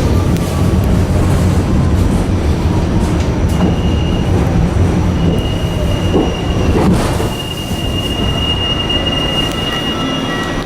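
New York City subway train running, with a steady low rumble of the cars on the track. About three and a half seconds in, a high steady wheel squeal comes in and keeps on.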